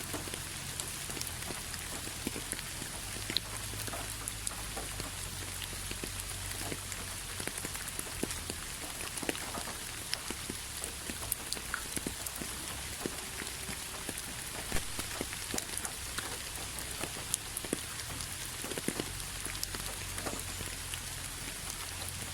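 Steady rain: an even hiss with many individual drops striking a surface in sharp, irregular taps, over a low steady rumble.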